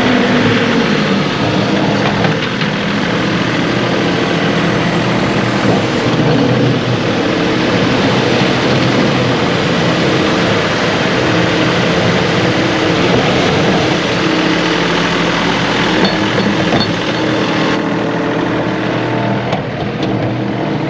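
John Deere 2038R compact tractor's three-cylinder diesel engine running steadily and loudly under load as it pushes snowbanks back.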